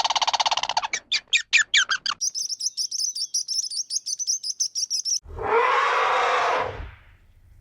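Wild birds calling in a run of separate calls: a fast rattling call, a few quick swooping notes, then about three seconds of high, rapid chirping. A loud, harsh, noisy call cuts in about five seconds in and lasts over a second.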